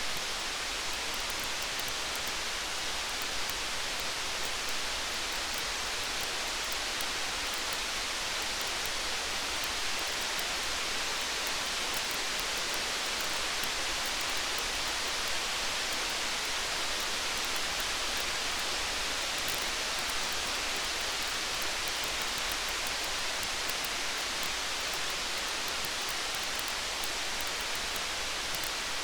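Steady rain, an even hiss, mixed with faint fine crackles from a campfire.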